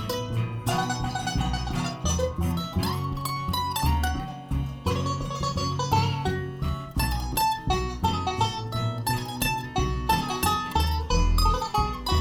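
Live bluegrass band playing an instrumental break: quick picked notes on acoustic string instruments over a steady bass line, with no singing.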